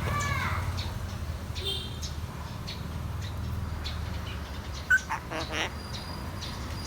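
Grey parrot making short calls: a brief rising-and-falling call at the start and another short call a couple of seconds in. A sharp click comes about five seconds in, followed by a few short scraping noises.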